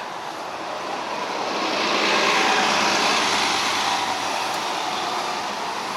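A vehicle passing on the road: a rushing noise that swells over the first two seconds or so, then slowly eases off.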